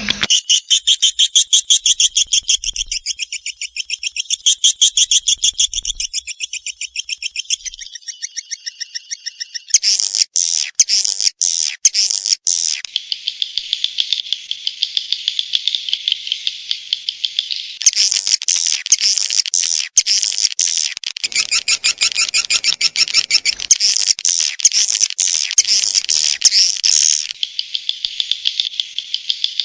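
Swiftlet calling track: edible-nest swiftlets twittering in a dense, fast, rattling chatter. The sections change abruptly every few seconds, as in an edited, looped lure recording made to draw swiftlets to a nesting house.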